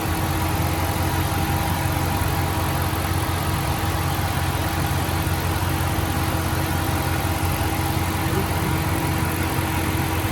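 Dodge Ram Hemi V8 idling steadily, running again after its failed MDS lifter was replaced.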